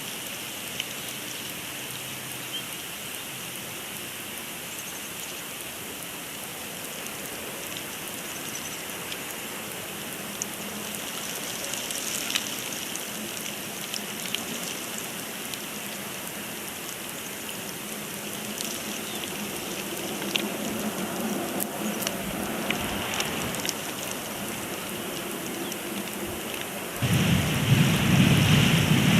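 Snowstorm on an outdoor nest-camera microphone: a steady rain-like hiss with scattered faint ticks. About two seconds before the end, a much louder low rumble comes in.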